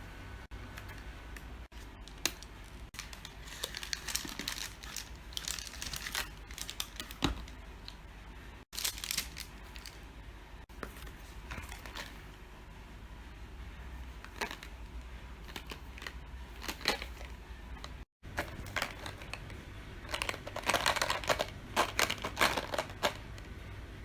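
Chocolate packaging crinkling and tearing as it is handled and opened, in irregular crackly bursts that are busiest near the end.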